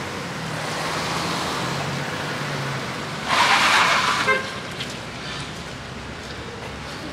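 Road traffic in a jammed street, running steadily. About three seconds in comes a loud hiss lasting about a second.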